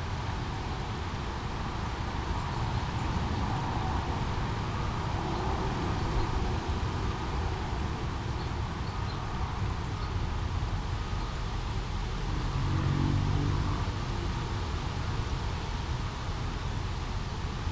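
Small brook babbling steadily over a low rumble of city traffic, with a vehicle's engine passing briefly about 13 seconds in.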